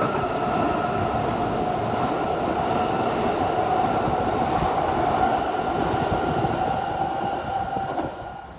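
A red electric multiple unit passing close underneath: steady rail and wheel noise with a steady whine held throughout, dropping away sharply near the end.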